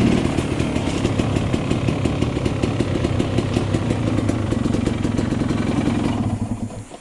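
2004 GasGas EC 300 two-stroke engine running steadily at idle through an FMF Powercore 2 exhaust, with a rapid, even pulsing. Near the end the engine dies away and stops.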